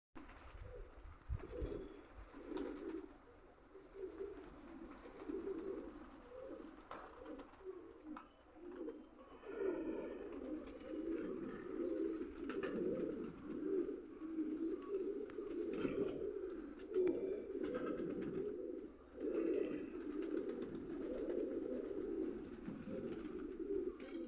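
Domestic pigeons cooing, several low coos overlapping; the cooing grows denser and almost unbroken about ten seconds in.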